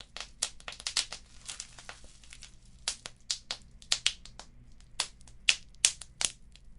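Wood fire crackling: a dense run of small irregular snaps and pops from burning logs and embers, with a few sharper, louder pops in the second half, over a faint low hiss.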